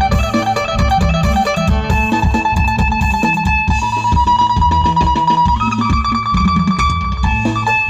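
Isan phin, the Thai plucked lute, playing a quick melody of plucked notes over a steady low beat, with one high note held for a few seconds midway.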